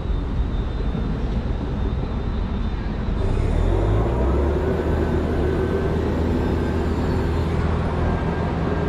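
Street traffic: a large motor vehicle's engine and tyres get louder and closer about three seconds in, then run steadily with a faint whine.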